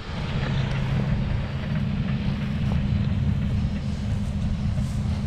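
New Holland CX5090 combine harvester running steadily in the field, a constant low engine rumble.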